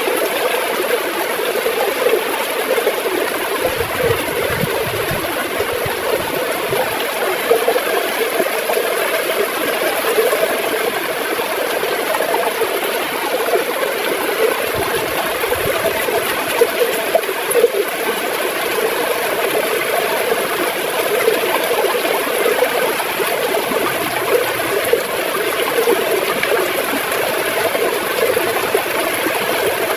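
River water flowing and gurgling steadily over stones, a continuous churning rush.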